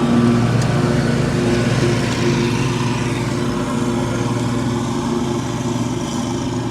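Riding lawn mower engine running steadily at a constant speed, with a steady low hum.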